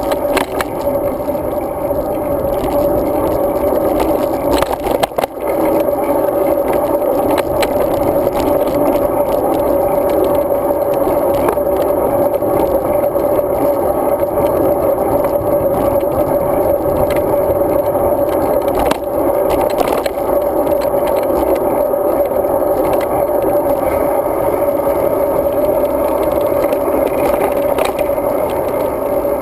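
Steady wind and road noise from a moving bicycle, picked up by a bike-mounted action camera, with a constant hum, light rattles and a few faint clicks; the noise dips briefly about five seconds in.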